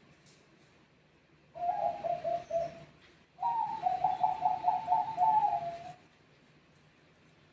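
Zebra dove (Bangkok perkutut) cooing: a short phrase about one and a half seconds in, then a longer, higher, pulsing phrase that ends near the end.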